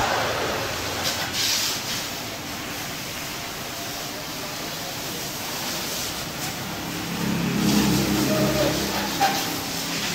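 A motor running with a steady hum over a constant hiss. The hum grows louder from about seven to nine seconds in.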